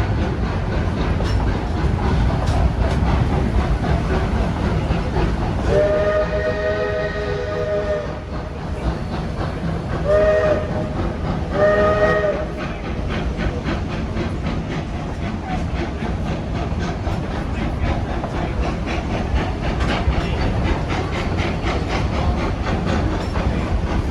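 Steam locomotive No. 40's chord whistle sounds one long blast, then two short ones, over the steady rumble and clickety-clack of the moving train.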